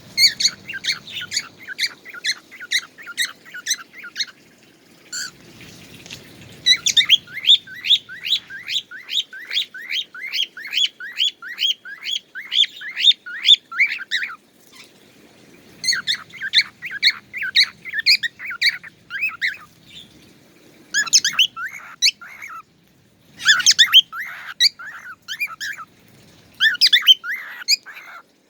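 A songbird singing long runs of short, sharp chirps repeated about three a second, with brief pauses between the runs.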